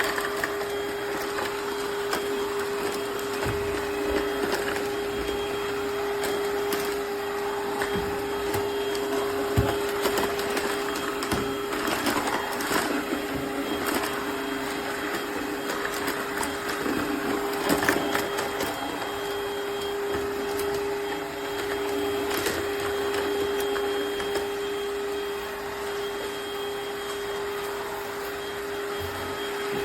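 Eureka cordless wet-dry floor cleaner running: a steady motor hum with one held whine over a noisy rush, and a few scattered knocks.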